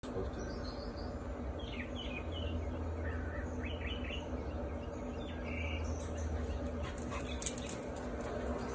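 Birds chirping in several short runs of quick, falling calls over a steady low hum, with one sharp click about seven and a half seconds in.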